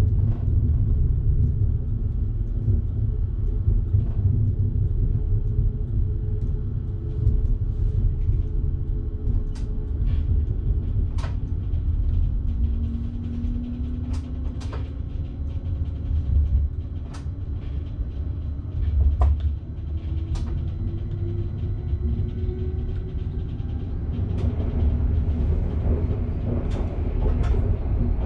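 Electric train running, heard from inside the driver's cab: a steady low rumble with scattered sharp clicks and knocks and faint motor tones slowly rising and falling.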